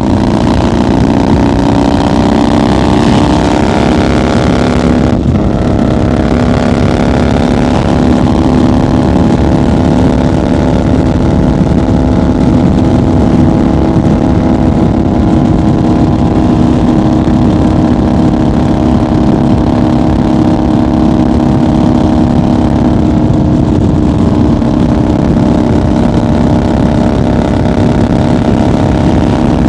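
1990 Harley-Davidson FXR's 1340 cc Evolution V-twin running at highway speed, over a rush of wind. Its pitch rises for the first few seconds, dips briefly about five seconds in, then holds nearly steady.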